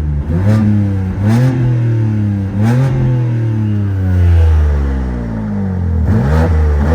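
BMW G82 M4's twin-turbo inline-six revved in about five quick blips, its pitch rising and falling each time, heard from inside the cabin. The exhaust valves are closed, in comfort mode, on catless resonated downpipes.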